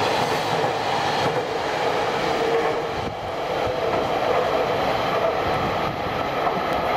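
Container wagons of a freight train rolling along the rails: a steady running noise of wheels on track, with a faint held tone, as the end of the train passes.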